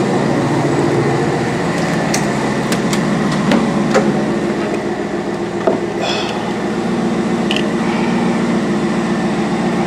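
BMW X5 E70 engine idling steadily after a cold start, with a few sharp clicks and knocks scattered over it.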